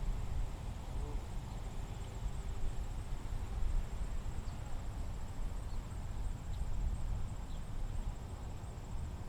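Outdoor ambience: a steady, high, finely pulsing insect trill, with a low fluctuating rumble and a few faint, short chirps scattered through.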